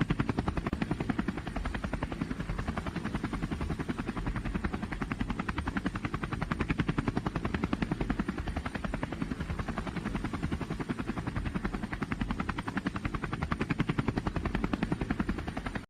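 Loud engine of a pulling truck or tractor running hard, a fast, even train of firing pulses with a deep low end that holds steady throughout.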